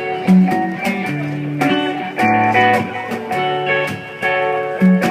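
Live band playing an instrumental stretch between vocal lines: strummed guitar and other plucked strings holding chords, with hand percussion tapping out a steady beat.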